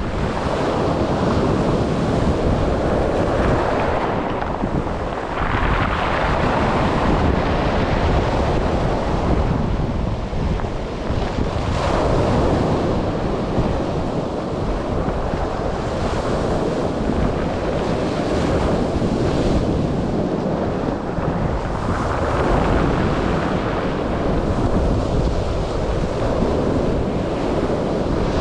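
Sea waves breaking on the shore in repeated surges every several seconds, with wind buffeting the microphone.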